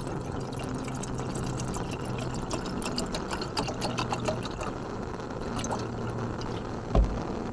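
Light rain ticking irregularly on the tent fabric over a low steady hum, with one dull thump about seven seconds in.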